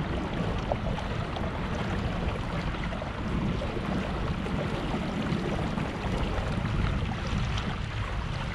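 Steady rush of wind on the microphone with water washing along the hull of a pedal-drive kayak under way.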